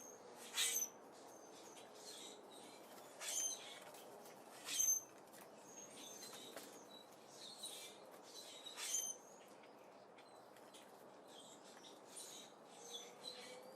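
Small birds at a seed feeder giving short, high-pitched chirps, scattered singly every second or few, a few louder ones among fainter ones, over a faint steady background hiss.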